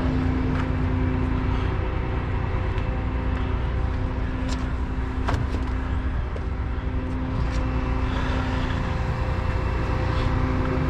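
Truck engine idling steadily, with a few short knocks over it.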